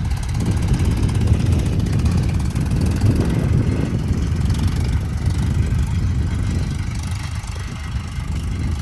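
Heavy diesel engine of earthmoving machinery running steadily with a low rumble, easing off a little near the end.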